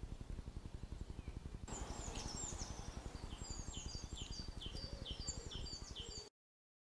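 Small birds chirping repeatedly in short, high calls, starting about two seconds in, over a steady low rumble of wind on the microphone; the sound cuts off suddenly near the end.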